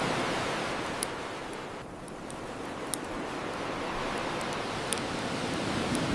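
Ocean surf washing on a shore, easing about two seconds in and building again, with sharp pops from a crackling bonfire, the loudest about one, three and five seconds in.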